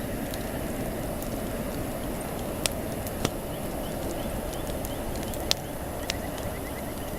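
Wood campfire burning: a steady low rush with a few sharp, separate crackles and pops, four of them standing out over the middle of the stretch.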